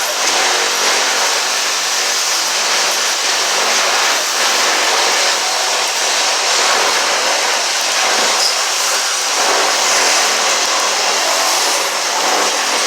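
A power tool running steadily and loudly, with an even hiss over a faint low hum.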